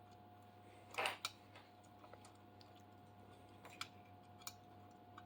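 A few faint clicks and taps as small screws are handled and fitted loosely into a CNC machine's mounting plate, with the loudest click about a second in.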